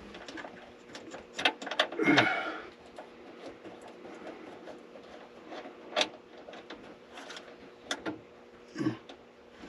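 Scattered light clicks and knocks of hand tools and wiring hardware being handled while a ground wire is fitted, with a short rustle about two seconds in and another near the end.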